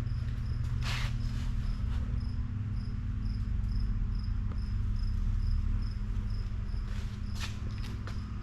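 1963 Ford Galaxie 500's 390 V8 idling steadily through its dual exhausts. A high, thin chirp repeats about twice a second over it, and there are a couple of brief rustles or knocks.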